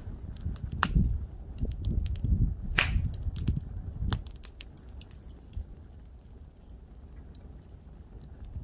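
Wood campfire crackling, with scattered sharp pops and snaps and one louder snap about three seconds in. A low rumble sits under the first half and fades out.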